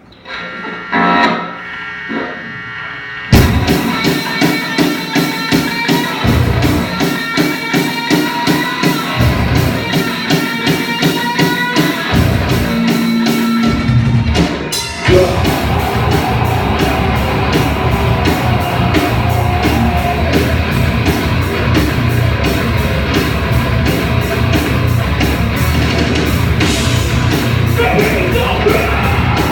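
Live rock band playing an original song: a few guitar notes open it, then the full band comes in loud about three seconds in with a steady beat. The playing breaks off briefly around the middle before carrying on.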